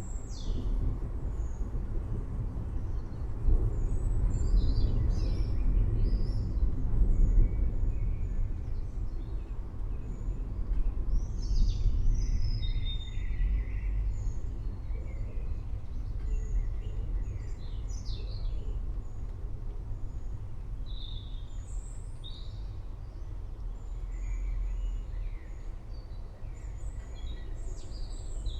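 Low, rolling rumble of distant thunder that swells a few seconds in and again around the middle, with several birds chirping and calling over it throughout.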